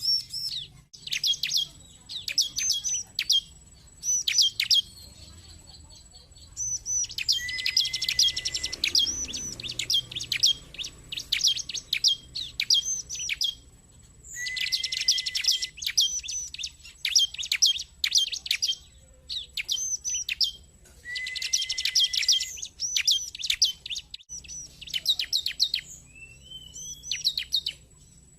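Bar-winged prinia (ciblek) calling: bursts of sharp, high chips and fast trills with short pauses between them, and a short rising note near the end.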